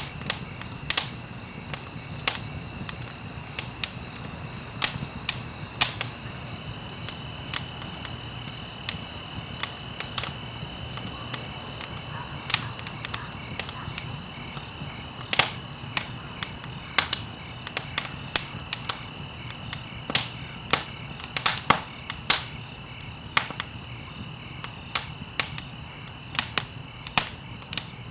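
Wood fire crackling: irregular sharp pops and snaps over a low steady rumble, with a steady high-pitched tone underneath.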